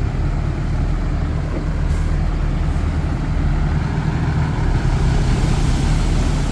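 Heavy diesel engine of an earthmoving machine, a dump truck or bulldozer, running steadily under a constant low drone. A brighter hiss swells about five seconds in.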